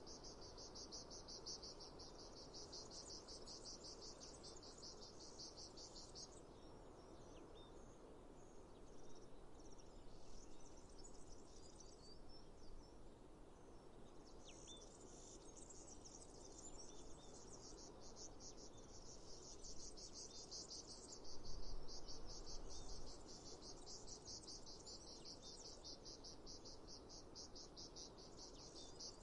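Crickets or similar insects trilling in a fast, even pulse that stops about six seconds in and starts again about halfway through, over a faint outdoor noise bed with a few short bird chirps in the gap. A brief low rumble comes a few seconds after the middle.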